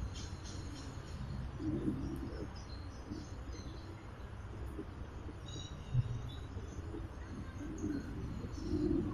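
Birds chirping with short high calls, and now and then a low cooing call, over a steady low background rumble.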